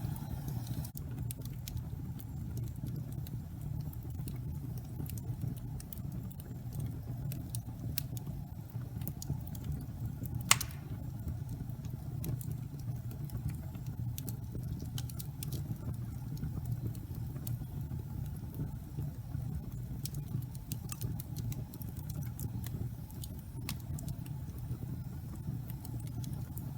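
Wood fire burning in a fireplace: a steady low rumble with scattered crackles and small pops, and one loud sharp pop about ten seconds in.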